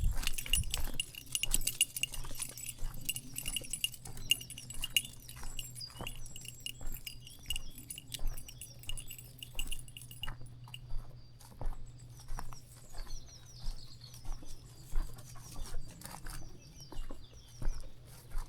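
Footsteps walking along a dirt path, about two steps a second, with small birds chirping.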